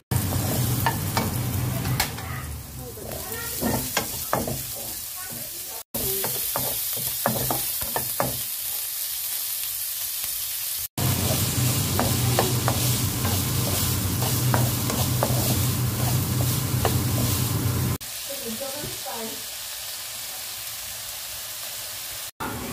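Food sizzling in a non-stick frying pan, first an egg cooking, then diced ham frying, while a spatula stirs and taps against the pan in many short clicks. A low hum runs under parts of it, and the sound drops out briefly three times.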